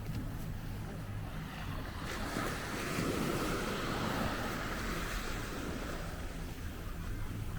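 A sea wave breaking and washing up the shore, swelling about two seconds in and fading away near the end, over a steady low rumble of wind on the microphone.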